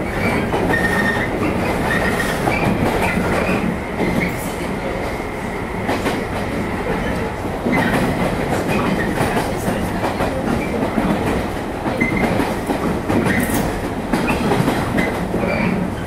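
115-series electric multiple unit running along the line, heard from inside the car: a steady rumble of wheels on the rails with clickety-clack from rail joints and a few short squeals of the wheels.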